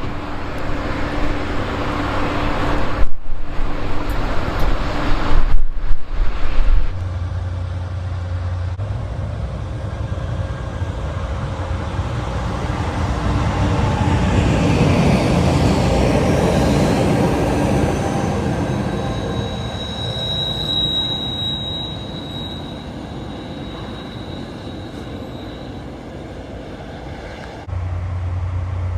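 A train passing: its rumble grows to its loudest about halfway through and then fades, with a brief high wheel squeal just after the loudest part.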